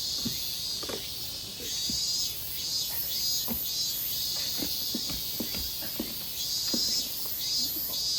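Insects chirping steadily in a high, pulsing chorus, with scattered short, faint creaks and knocks underneath.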